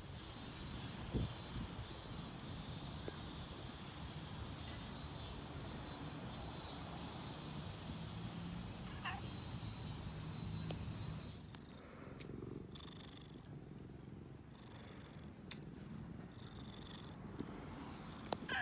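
A cat purring close by, a low rough rumble. A steady high hiss runs beneath it and stops abruptly about two-thirds of the way through, followed by a few faint clicks.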